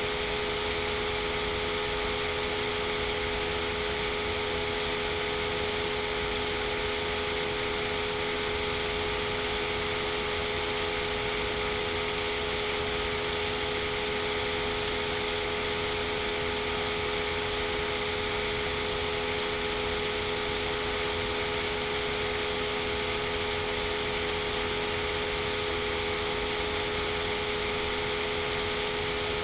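Steady, unchanging hum with hiss: a few constant low tones under an even high hiss, with no events.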